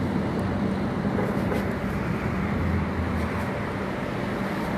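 Steady urban background noise, an even rumble and hiss with a low steady hum underneath and no distinct events.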